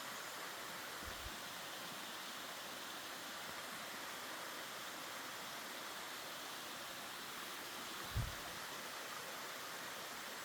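Steady rushing of a mountain stream, with a short low thud about eight seconds in.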